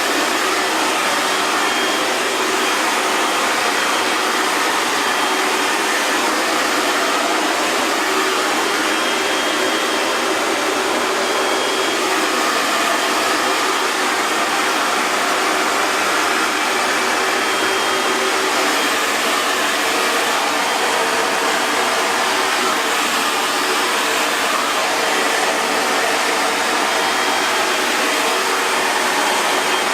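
Hair dryer running steadily: a continuous, even rush of blown air with a faint steady motor whine.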